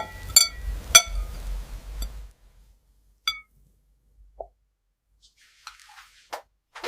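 A glass jar clinking against a ceramic plate: three ringing taps close together in the first second, single clinks about three seconds in and near the end, and soft scratching in between.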